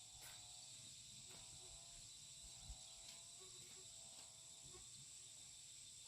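Near silence with a faint, steady high-pitched chirring of crickets or other insects.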